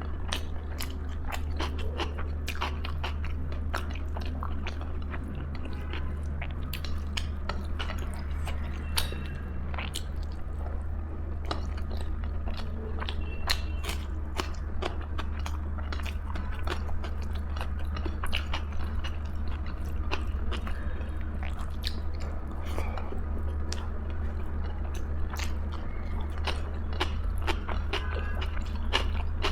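Close-miked eating: a person biting and chewing food with wet clicks and occasional crunches, over a steady low hum.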